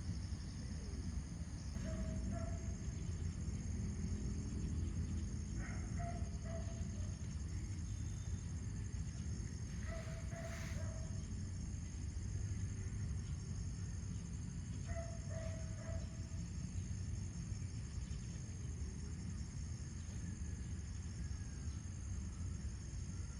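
A bird calling four times, a few seconds apart, each call short and level in pitch, over a steady high insect drone and a low outdoor rumble.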